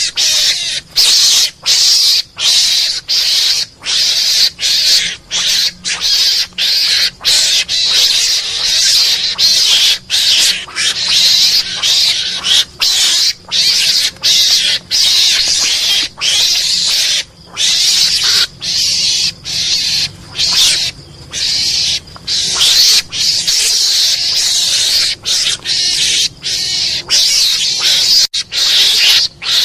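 Mongoose lure call: raspy, hissing chatter repeated in short bursts, broken by brief gaps about once or twice a second, played as a continuous loop to draw mongooses in.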